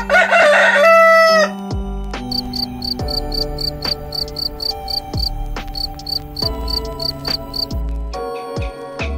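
A rooster crows once. It is followed by a cricket chirping in a steady rhythm of about three chirps a second, over background music with bass notes.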